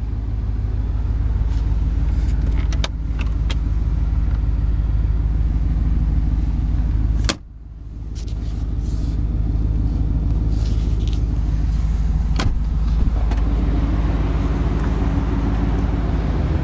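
1991 Chevrolet Silverado's engine idling steadily. A few sharp clicks are heard, and the sound drops out abruptly about seven seconds in, then comes back up over a second or so.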